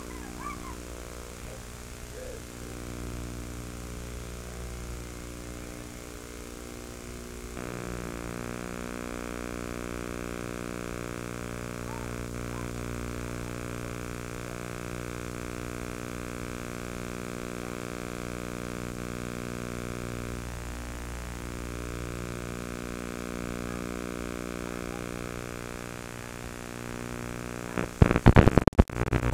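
A steady droning hum with many overtones, growing louder and fuller about eight seconds in, then a few sharp loud knocks near the end.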